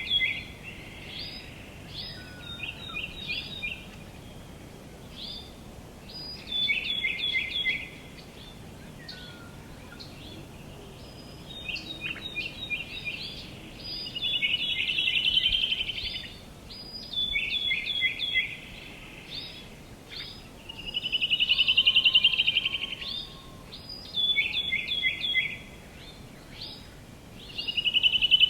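Songbirds singing outdoors: short phrases of quick repeated notes every few seconds, alternating with louder buzzy trills of about two seconds, the loudest near the end. A steady faint background hiss runs underneath.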